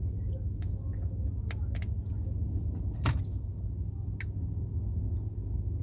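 Steady low rumble of a car heard from inside the cabin, with a few sharp clicks over it, the loudest about three seconds in.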